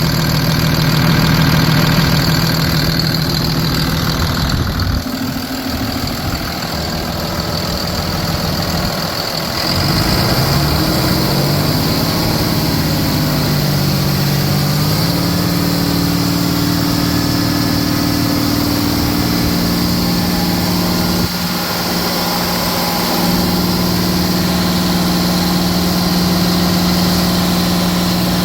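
Cummins ISB 6.7 turbo-diesel inline-six engine running. It idles steadily, its engine speed wavers and bends between about 5 and 15 seconds in, then holds a steady, slightly higher speed.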